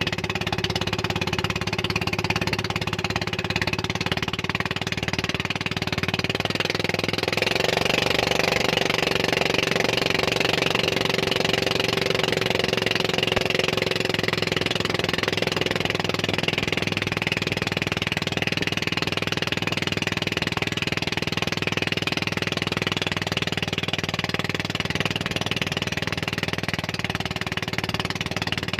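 Motorboat engine running steadily, with rushing noise over it; a higher engine tone joins for several seconds in the middle.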